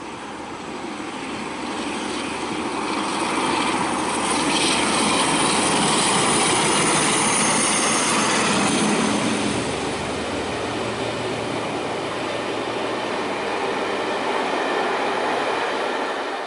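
A locomotive-hauled passenger train passing close by, growing louder as the locomotive draws level a few seconds in, then the coaches rolling past steadily before the sound fades out at the end.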